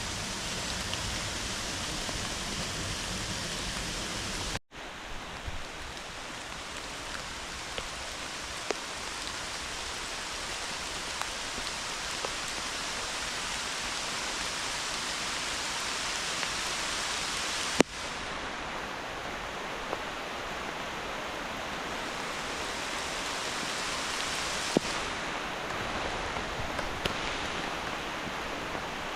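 Steady hiss of heavy rain falling in woods, mixed with rushing floodwater from a swollen, overflowing creek. The hiss briefly cuts out about five seconds in, and a few sharp clicks sound, the loudest about eighteen seconds in.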